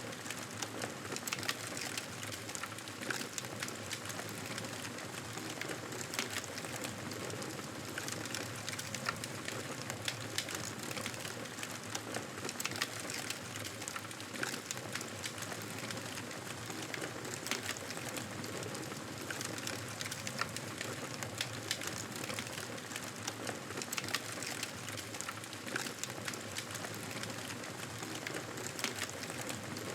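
Wood fire crackling steadily, with frequent small irregular pops and snaps over a constant hiss.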